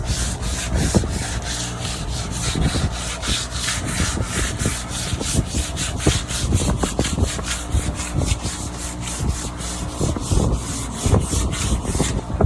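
Hand sanding of wooden trim with sandpaper: quick back-and-forth scratchy strokes, about four a second, over a steady low hum.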